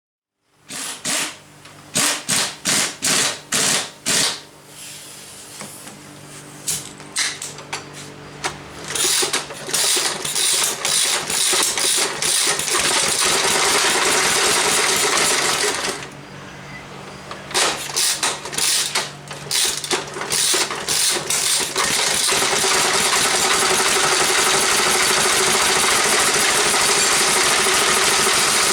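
Single-cylinder Briggs & Stratton model FI engine being started: a few separate loud pops and sputters at first, then it catches about 9 seconds in with a rapid ticking run. It falters around 16 seconds, picks up again with uneven firing, and runs steadily from about 22 seconds, its first run in about 15 years.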